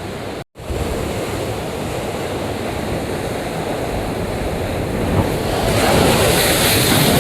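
Sea waves surging and breaking against shore rocks, a rush of surf that builds louder about five to six seconds in, with wind buffeting the microphone. The sound cuts out for an instant about half a second in.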